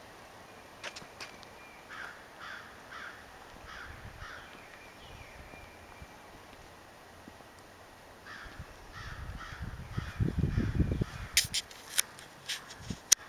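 Crows cawing in a series of short calls about half a second apart, twice. Near the end there is a louder low rumble lasting a couple of seconds, then several sharp clicks.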